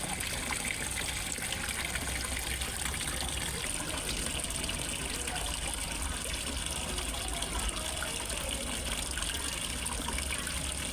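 Water pouring steadily into a fish pond: a continuous, even gushing and splashing, like a small pond waterfall.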